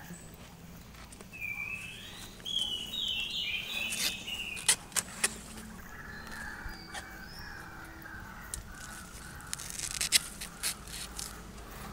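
Rural outdoor ambience: a bird calls in a quick series of short high notes in the first few seconds, with a fainter drawn-out call in the middle. Several sharp clicks and snaps are scattered through it, the loudest about five seconds in and near the end.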